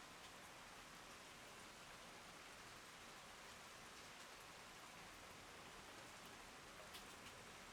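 Faint steady rain falling, with an occasional single drop ticking close by near the end.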